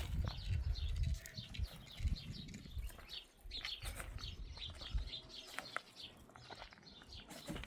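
Small birds chirping repeatedly, many short high notes overlapping, with a low rumble in the first second or so.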